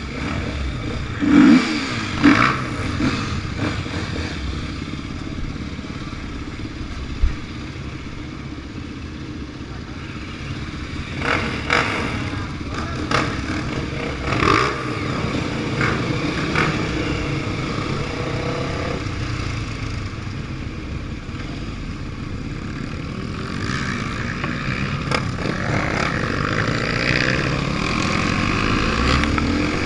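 Off-road trail motorcycle engines running, with a few sharp knocks and clatter early on. They rev up in rising sweeps around the middle and again near the end.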